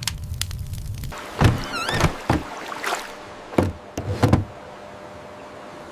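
A small boat docking: a low motor rumble that cuts off about a second in, then a string of thunks and knocks against the pier at uneven gaps, with a short wavering creak near two seconds in.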